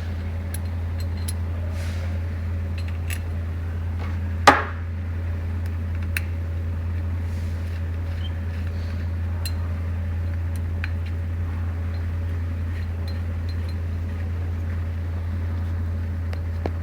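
Small metal engine parts clicking and clinking as they are handled during assembly of a two-stroke RC engine, with one louder clank about four and a half seconds in, over a steady low hum.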